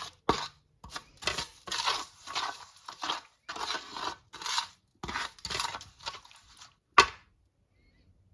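Spoon stirring a wet spice-and-sauce marinade in a bowl, scraping in rhythmic strokes about two a second, then a single sharp knock about seven seconds in.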